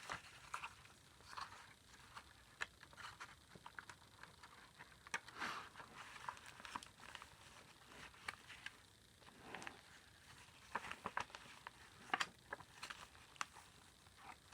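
Faint rustling and crinkling of paper and card, with soft scattered clicks, as the pages and tucked cards of a handmade paper journal are handled and turned.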